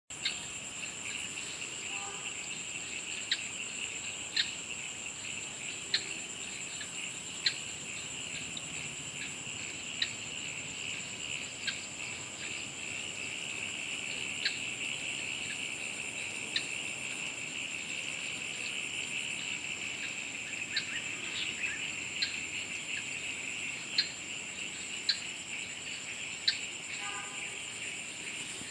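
Insects chorusing: a steady high-pitched drone in two bands, with short sharp chirps standing out every second or two.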